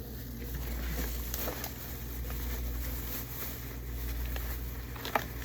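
Light handling noises, soft taps and rustles of fruit and packaging, over a steady low hum, with one sharp click about five seconds in.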